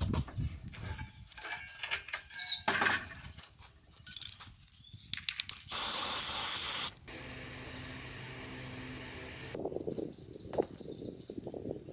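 A loud hiss lasting about a second near the middle, like a spray, between light clicks and knocks of handling. Steady high chirping runs underneath, with quick repeated chirps near the end.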